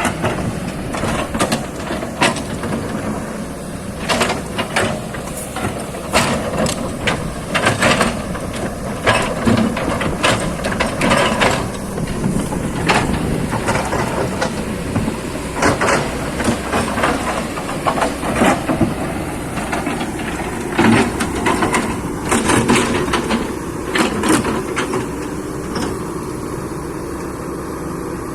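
Excavator's diesel engine running steadily under load, with many sharp knocks and clanks over it.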